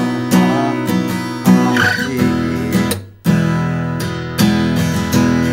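Acoustic guitar strumming open chords in a steady strumming pattern. About three seconds in the strumming breaks off briefly, then resumes on the next chord.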